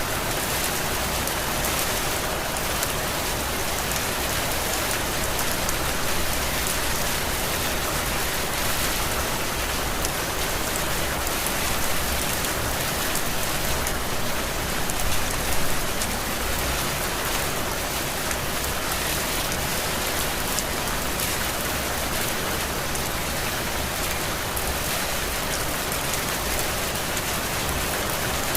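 Steady heavy tropical rain, an even dense hiss of falling drops, swelling slightly a couple of times midway.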